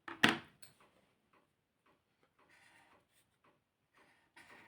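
A sharp click about a quarter second in, then a few faint ticks and light scratching, from colouring pens being handled between letters.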